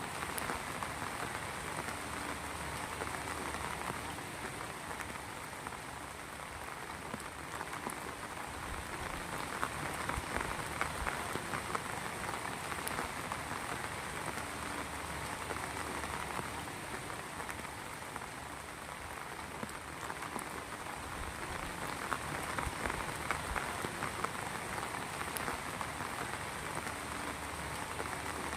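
Heavy rain falling steadily on a surface, with many fine drop patters and gentle swells in intensity every few seconds.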